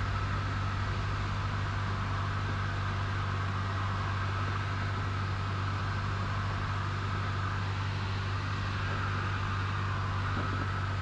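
Cessna 172N's four-cylinder Lycoming engine and propeller droning steadily in flight, heard from inside the cockpit.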